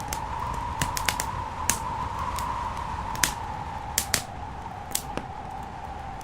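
Wood fire crackling in a fireplace: about a dozen irregular sharp pops and snaps over a steady rushing background.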